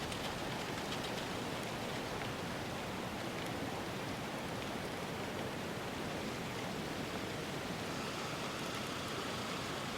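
Steady, even hiss of an outdoor ambience bed, with faint high ticks near the start and again near the end.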